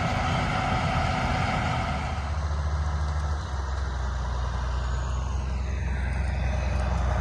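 Combine harvester running steadily with a low engine hum. About two seconds in, the higher rushing noise falls away and only the steady low hum carries on.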